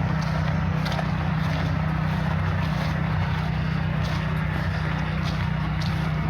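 Footsteps on a park path, about one step every 0.8 seconds, over a steady low rumble.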